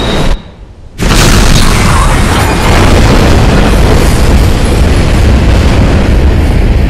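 Film sound effects of a speeding train and blowing snow: loud, dense rushing noise with a deep rumble. It drops out for about half a second just after the start, then comes back in loud about a second in and runs on steadily.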